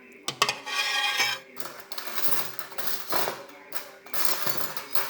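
Metal spoon clinking against a bowl of bakso, with several noisy close-up eating sounds, about a second each, between the clinks.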